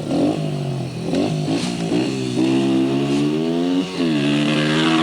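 Dirt bike engine revving, its pitch rising and falling, with a slow climb that dips briefly near four seconds and then climbs again.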